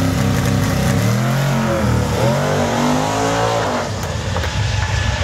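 A 606 cubic inch naturally aspirated big-block Chevy V8 in a 1968 Chevelle making a full-throttle drag-strip pass. Its revs climb, dip about two seconds in and climb again, then the sound fades as the car pulls away down the track.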